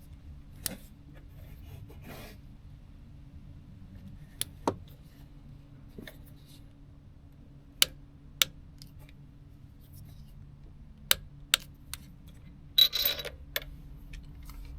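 Hand tools being handled during a scooter spark-plug change: scattered sharp metallic clicks, about a dozen, and a short scraping rasp near the end, over a low steady hum.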